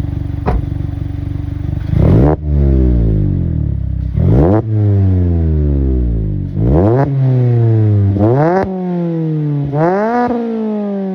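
Mazda ND Roadster's inline-four engine, breathing through a Tomei RSE full-titanium aftermarket exhaust, revved repeatedly while stationary. A short blip, then five rev blips, each climbing quickly and dropping slowly back toward idle.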